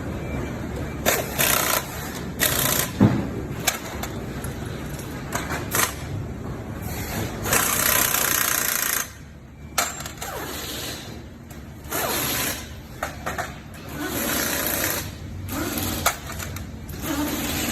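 Motorcycle engine running with a fast, even beat, with several loud hissing or clattering bursts and a few sharp clicks over it.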